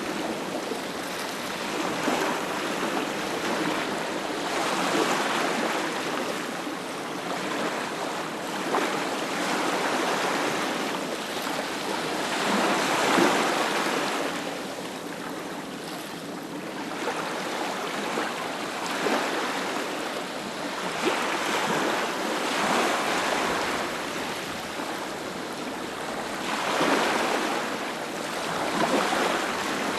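Sea waves breaking and washing up a beach, the surf noise swelling and easing every few seconds, with stronger surges about halfway through and near the end.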